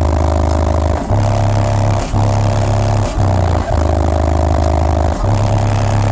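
A Chevrolet Tahoe's car-audio subwoofer system playing loud, deep bass in long held notes broken by short gaps about once a second, with a buzzing rattle riding on top.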